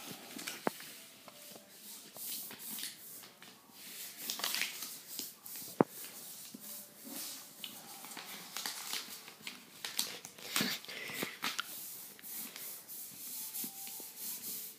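Paper rustling and crinkling as a sheet is handled and folded into a paper airplane, with scattered sharp crackles and taps of creasing.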